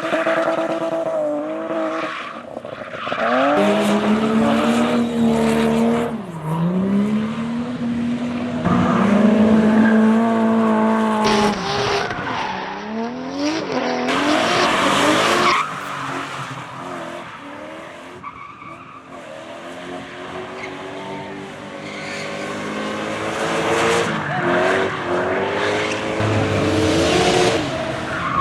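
Drift cars sliding with engines revving hard and falling off, their tyres squealing and hissing through the slides. The engine note swells and dies away as cars pass, quietest about two thirds of the way through, then builds again as the next car arrives.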